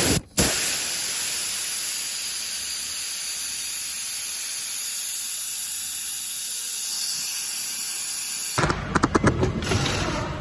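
A steady hiss that cuts off sharply about eight and a half seconds in, followed by a quick run of crackling clicks.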